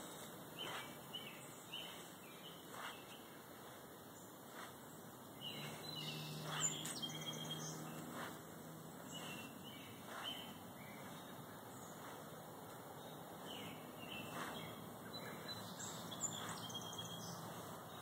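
Songbirds chirping and calling, with short, scattered high notes throughout. About six seconds in, a faint low hum rises and fades over a couple of seconds.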